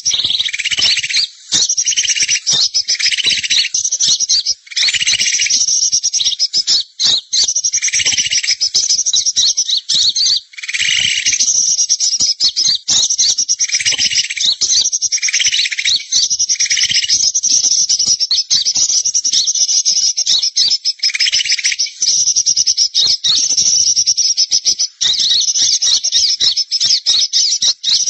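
Birds calling without a break in a rapid, high-pitched chattering trill, with a lower, fuller note breaking in roughly every second or two.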